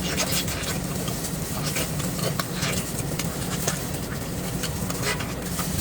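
A person chewing a mouthful of food, with scattered soft wet mouth clicks and smacks over a steady low hum.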